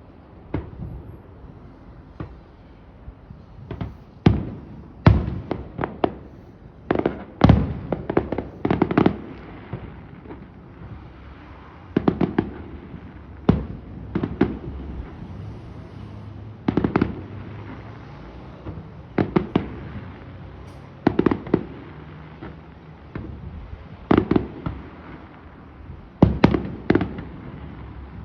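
Fireworks going off: a string of irregular sharp bangs, some in quick pairs and clusters, each trailing off in an echoing rumble.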